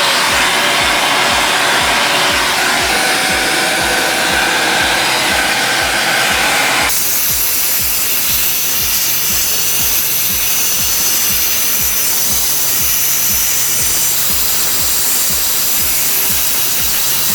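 Vacuum cleaner running as its nozzle draws dust off an air conditioner's heat exchanger fins; the sound drops abruptly about seven seconds in, then carries on steadily.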